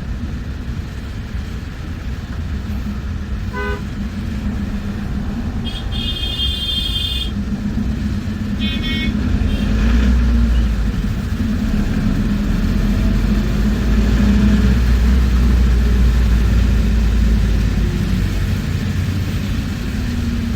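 Bus engine running inside the moving bus, a steady low drone that swells as the bus pulls harder around the middle. Traffic horns honk several times in the first half, the longest about six seconds in.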